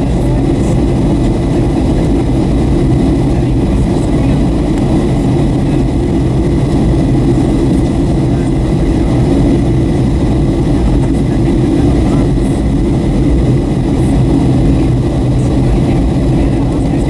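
Steady cabin noise of a Boeing 757-300 in flight on approach: a low engine drone and rushing air, with a faint steady high-pitched whine.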